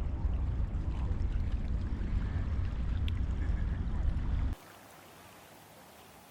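Wind buffeting the camera microphone, a loud low rumble that cuts off abruptly about four and a half seconds in, leaving a faint steady hiss.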